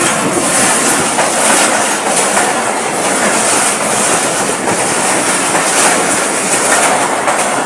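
Train passing close at speed: a loud, steady rush of wheels on rail with rapid clickety-clack from the carriages.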